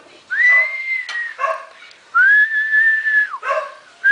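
A person whistling two long steady notes, each answered right after by a short cat meow.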